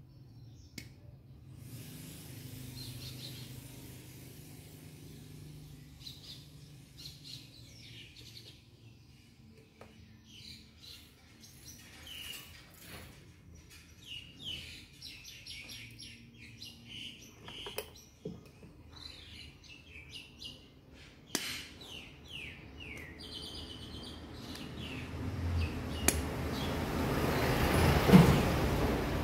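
Birds chirping and tweeting in short repeated calls. Near the end a swelling rumble of passing traffic rises over them and becomes the loudest sound.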